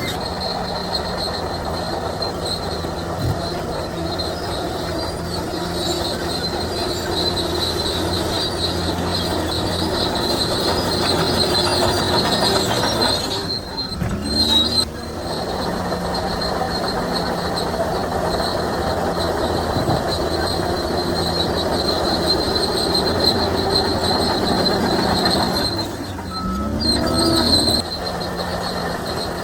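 Crawler bulldozer (Shantui DH17C3) running under load, its steel tracks and running gear squealing steadily as it moves. Twice, about halfway and near the end, the engine note briefly drops and climbs again.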